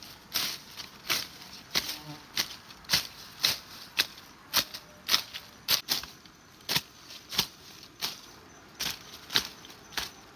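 Footsteps along a rural trail: a steady walking pace of about two short crunching steps a second.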